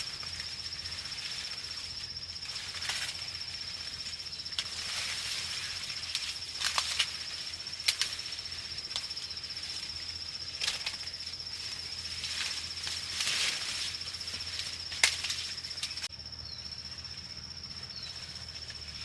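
A steady, high-pitched insect trill goes on throughout. Irregular rustles and sharp snaps sound over it and die away near the end.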